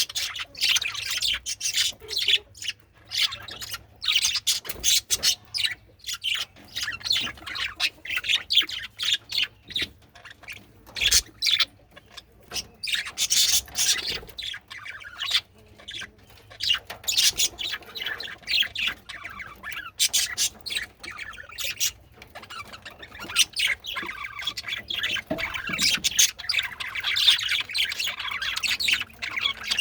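Male budgerigars chattering and warbling in a fast, continuous stream of chirps with sharp squawks mixed in.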